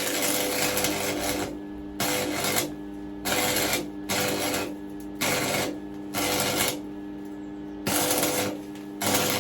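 Stick welder arc crackling in a string of short bursts, about eight in all, each half a second to a second and a half long with brief gaps, as the rod is struck and broken off again on thin steel, over a steady hum. The welder thinks the arc is blowing through the thin metal.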